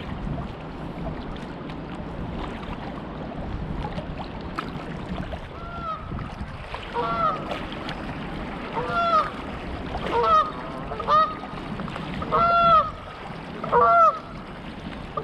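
Geese honking: a series of short, arched honks starting about six seconds in, over a steady background of water and wind noise.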